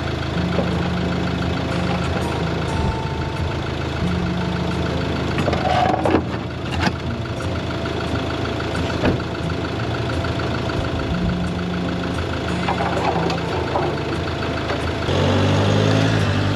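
Vehicle engine running steadily with the drone of driving, and a few short knocks or rattles about six to nine seconds in.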